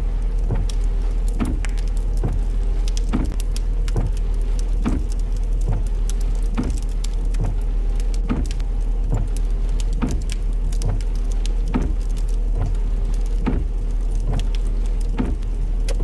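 Inside a car driving in the rain, heard over a voice chat: a steady low road rumble, rain pattering, and windshield wipers sweeping about once every second.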